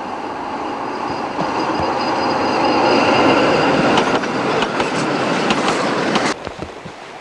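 A tram drawing near and running past, growing louder, with a thin high squeal from its wheels and a run of clicks over the rail joints; the sound cuts off abruptly about six seconds in.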